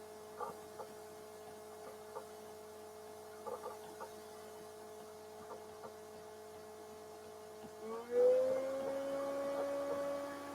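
Steady electrical hum made of a couple of pitched tones, with faint scattered ticks. About eight seconds in, the hum slides up in pitch and grows louder, then holds at the new pitch.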